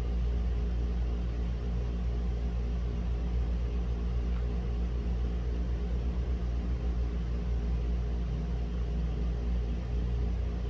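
Steady low rumble with a low hum from the neighbourhood background, holding at an even level throughout.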